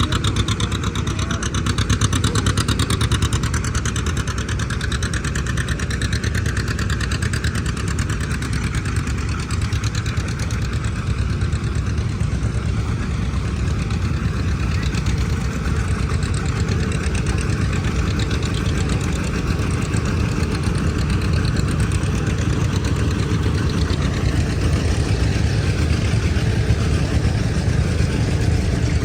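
An engine running steadily at or near idle, with an even, continuous beat.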